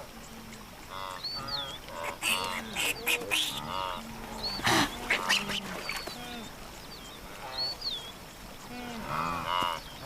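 Wildebeest herd grunting, short honking calls repeated over and over, with high bird chirps recurring above them. A few short sharp sounds come in the middle, the loudest about five seconds in.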